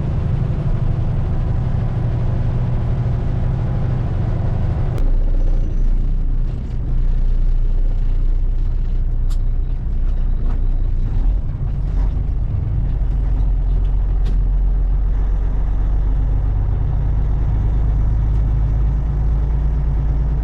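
Diesel dump truck engine running steadily with a low drone. About five seconds in the higher-pitched noise falls away suddenly and a deeper drone carries on, with a few sharp clicks scattered through the middle.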